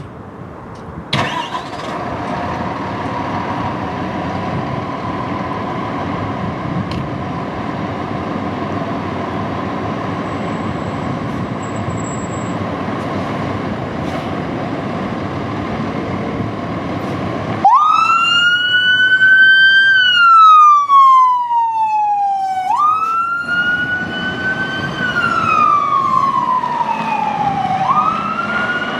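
Fire engine running with a steady rumble, then its siren starts a little over halfway through: a wail that rises quickly and falls slowly, about three times.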